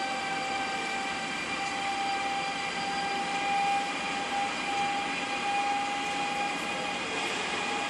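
Class E189 (Siemens ES64F4) electric locomotive running, with a steady whine of several held tones over an even rumble.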